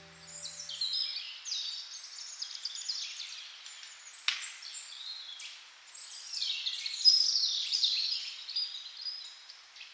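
Several songbirds singing and chirping in quick, overlapping phrases, while the last low notes of the song die away in the first second. One sharp click about four seconds in.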